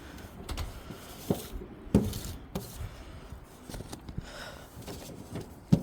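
Gloved hands rummaging through mail in a mailbox: scattered rustles and light knocks, with a sharp click near the end.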